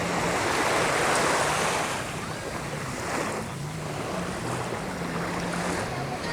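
Sea waves washing up on a beach, with a surge about a second in, and wind buffeting the microphone. A low, steady motor hum runs underneath.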